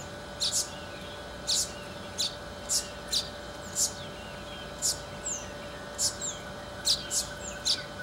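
A small bird calling with short, sharp, high notes, each dropping in pitch, repeated unevenly about twice a second, over a faint steady hum.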